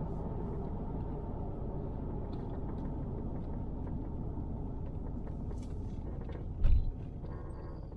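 Steady road and engine noise heard inside a moving car's cabin, with one brief low thump about two-thirds of the way through.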